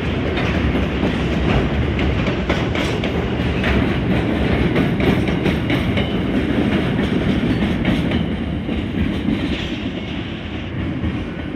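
Container freight train's flat wagons rolling past: a steady heavy rumble of steel wheels on rail with irregular clicks and clacks over the rail joints, easing a little near the end.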